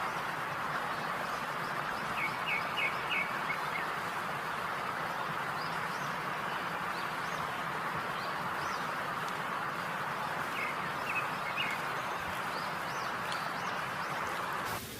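Food deep-frying in hot oil: a steady sizzle with scattered small pops and crackles. The sizzle drops away abruptly just before the end.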